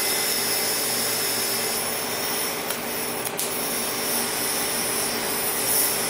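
A power tool running steadily on stainless steel, a continuous hissing whir.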